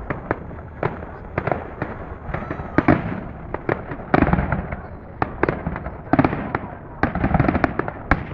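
Fireworks going off: a rapid, irregular series of bangs and crackles over a low rumble, thickening into dense clusters about four seconds in and again near the end.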